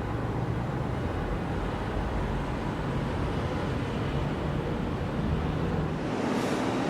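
Steady rumble and hiss of factory machinery. About six seconds in, the deepest rumble falls away and a higher hum takes over.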